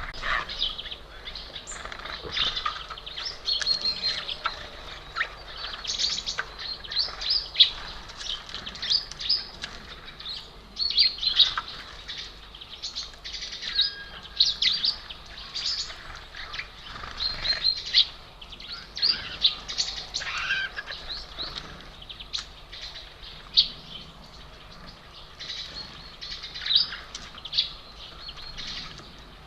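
Small songbirds at a bird feeder chirping and calling, many short high chirps overlapping one another throughout.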